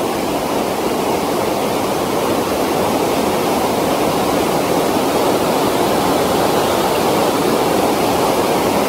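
Creek water rushing steadily over and around rocks: an even, continuous rush with no breaks.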